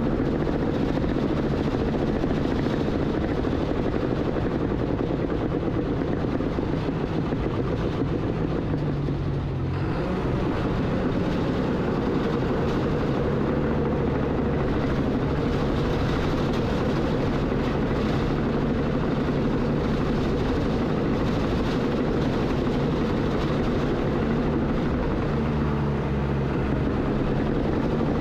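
Heavy earthmoving machine's diesel engine running steadily under work. Its note dips and shifts briefly about a third of the way in.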